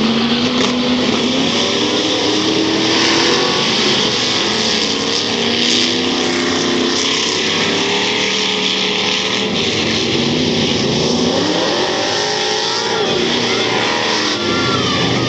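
Several stock car engines running together at race speed on a dirt oval, their notes rising and falling as the cars come past and accelerate out of the turns.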